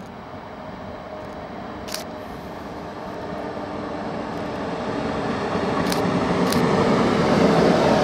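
Train approaching, its running noise growing steadily louder, with a few sharp clicks along the way.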